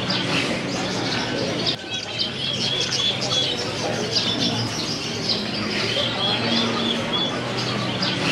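A dense chorus of many caged birds chirping and calling at once, with one call phrase coming back every few seconds.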